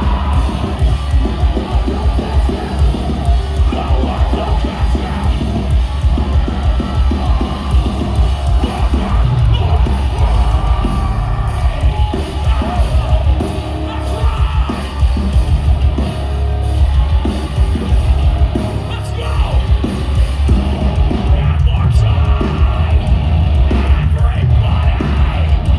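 Metalcore band playing live at full volume: distorted guitars, pounding drums and screamed vocals.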